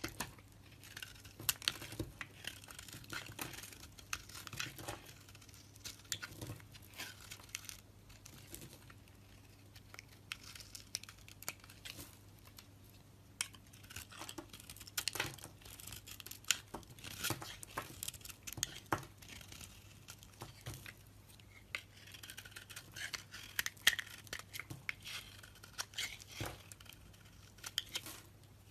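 Knife cutting and scraping a bar of soap: irregular scratchy strokes with small crisp snaps as shavings come away, over a faint steady low hum.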